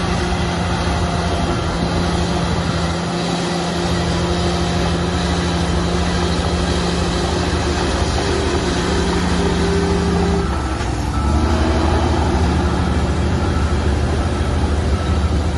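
Heavy diesel earthmoving machinery running under load with a steady drone. Its pitch shifts about ten and a half seconds in, then settles again.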